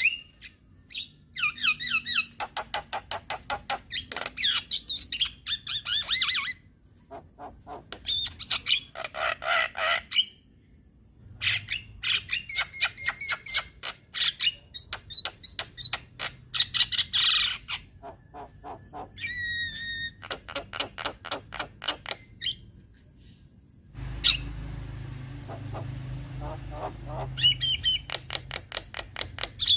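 Javan myna singing in bursts of quick clicking notes and harsh chattering, with short whistled phrases and brief pauses between runs. About three-quarters of the way through, a low steady hum comes in underneath the song.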